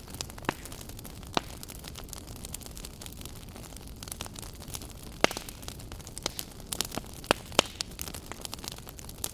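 Wood fire burning in a fireplace: a steady low hiss with irregular sharp pops and crackles, which come more often in the second half.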